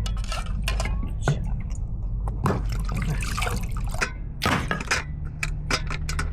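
Liquid splashing and dripping in irregular short clicks and splashes, as when food is stirred or liquid is poured during cooking.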